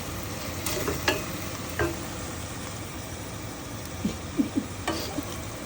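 Food sizzling and frying in a pan on the stove, with a few short knocks and scrapes of a cooking utensil.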